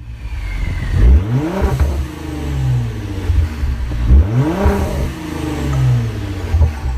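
Twin-turbo EcoBoost V6 in a Ford Mustang revving up twice, the engine note sweeping upward about a second in and again about four seconds in.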